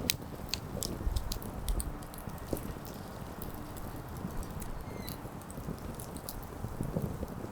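Wood campfire crackling, with sharp, irregular pops and snaps over a low, steady rush.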